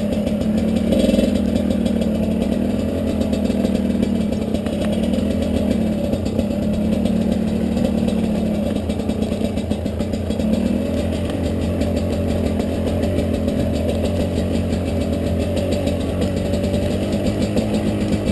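Two-stroke dirt bike engine running at low, fairly steady revs, its pitch rising and falling gently a few times with small throttle changes.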